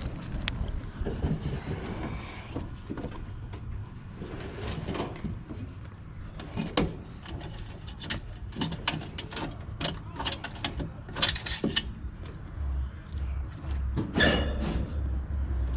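Irregular clicks, knocks and rattles of hand work with tools and metal parts. A louder metallic clatter with a brief ring comes near the end.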